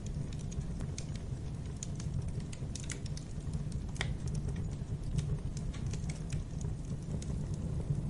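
Wood fire burning in a fireplace: a steady low rumble of flames with irregular crackles and pops, one sharper pop about four seconds in.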